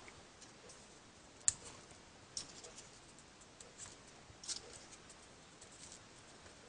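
Folded paper pieces of a 3D origami model being handled: soft paper rustling with a few sharp light clicks, the loudest about a second and a half in.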